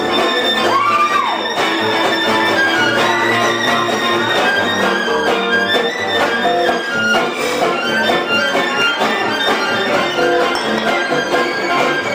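Live band playing music, its lead melody sliding up and back down in pitch about a second in.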